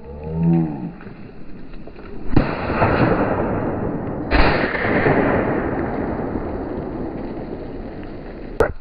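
Two shotgun shots about two seconds apart, each a sudden blast followed by a long noisy tail that fades slowly.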